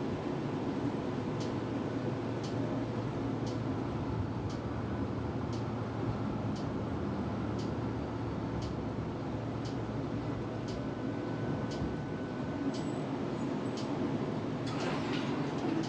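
Tram running along its tracks, heard from inside the car: a steady rumble with a faint tick about once a second. Near the end, metallic clinks and squeaks start up.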